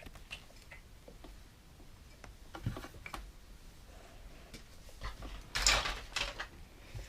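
Toy train track pieces being handled and fitted together: scattered light clicks and knocks, with a louder rustling clatter of pieces about two-thirds of the way through.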